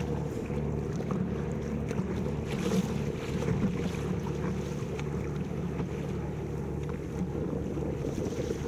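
Wind buffeting the camera microphone in a steady low rumble, with water splashing and lapping around a paddleboard.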